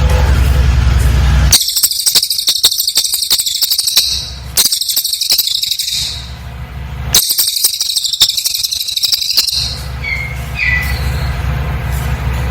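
Cililin bird singing in two runs of very rapid, high-pitched trilling notes, each a few seconds long, with a short pause between them and a brief chirp near the end. A steady low hum fills the gaps.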